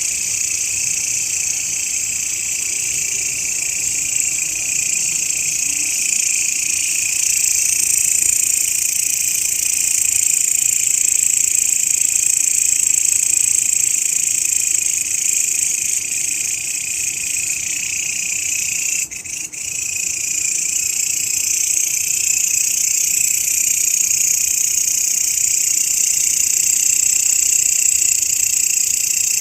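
Grasshopper song: a continuous, high-pitched, shrill buzzing that runs unbroken apart from a brief dip about 19 seconds in.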